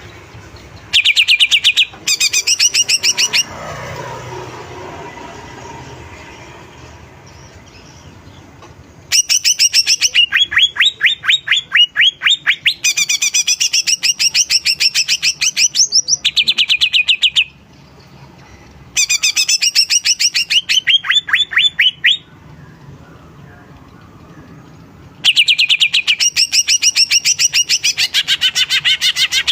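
Green leafbird (cucak ijo) in full song, in four long bursts of fast, evenly repeated high chattering notes, with quieter gaps of a few seconds between them.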